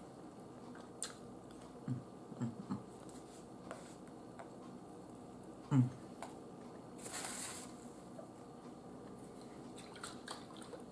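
A person chewing food close to the microphone, with soft wet mouth sounds and a few short low mouth noises. About seven seconds in comes a brief breathy hiss, and near the end a few light clicks.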